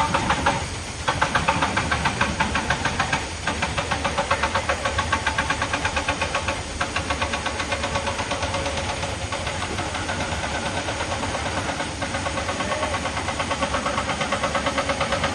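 Heavy diesel machinery running with a rapid, even pulsing of about five beats a second.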